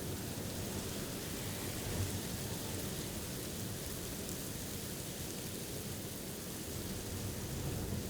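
Steady blizzard wind noise around a hunting blind: an even, low rushing hiss with no breaks.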